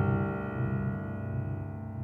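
Background music: a sustained piano chord, struck just before, fading slowly away.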